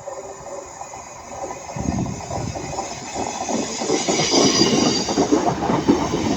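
Northern Class 150 diesel multiple unit passing, its wheels clattering over the rail joints, growing louder about two seconds in. A thin high squeal from the wheels joins in about four seconds in.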